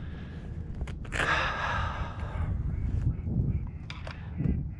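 A person's breathy exhale lasting about a second and a half, over a steady low rumble, with a few small clicks.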